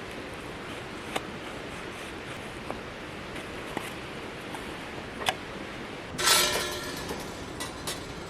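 Small clinks of hard objects being handled, then a louder rattling clatter with a ringing edge about six seconds in, over a steady background hiss.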